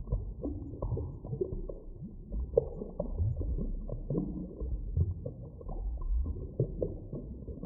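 Muffled deep-underwater ambience: a constant low rumble with scattered soft knocks, creaks and short gliding tones, nothing above a low-pitched range.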